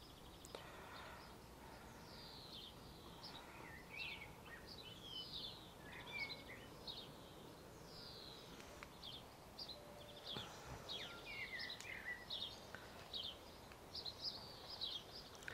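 Faint birdsong: small birds chirping in a quick run of short, high notes, over a steady faint outdoor hiss.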